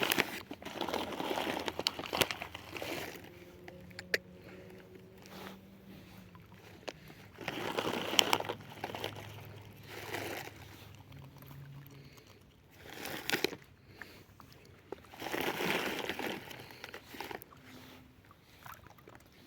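Crinkling and rustling of a food bag handled in several short bursts while feeding a swan, over a faint low hum in the middle stretch.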